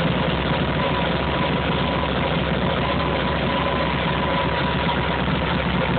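1290cc JAP 8/80 V-twin racing engine, running on methanol in a 1933 Morgan three-wheeler, idling steadily.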